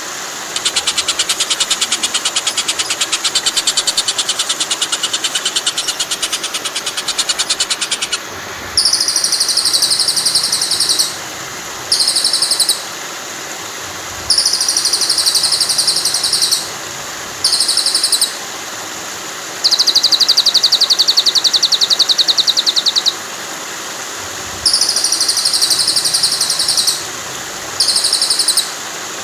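A rapid, buzzy high-pitched trill used as filler song in murai batu (white-rumped shama) song training: one long run, then the same trill repeated about eight times in bursts of one to three seconds. Under it runs a steady rush of flowing water.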